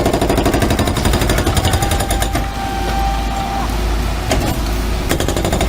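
Demolition breaker hammering rapidly over a low engine rumble. The hammering stops about two and a half seconds in, leaving the engine running, then starts again near the end.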